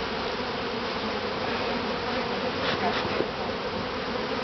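Many honeybees buzzing around an opened top-bar hive: a steady, unbroken hum.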